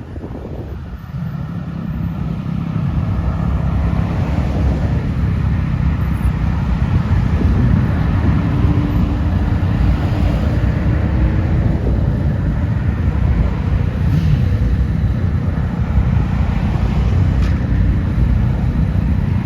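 A car's engine and exhaust rumbling loudly. It grows louder over the first several seconds, then runs on steadily.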